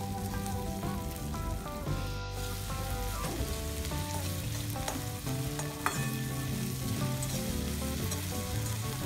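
Chopped onion frying in hot mustard oil with whole spices in a metal kadai, sizzling as a metal spatula stirs and scrapes it round the pan. There is a sharper clink of the spatula on the pan about six seconds in.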